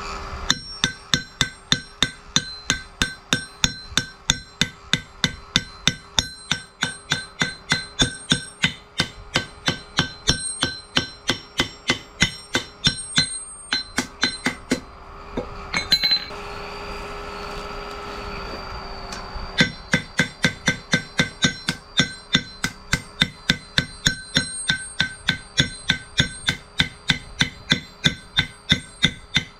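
Hammer striking metal in a steady rhythm, about two to three ringing blows a second. The hammering stops for a few seconds just past the middle, then resumes at the same pace.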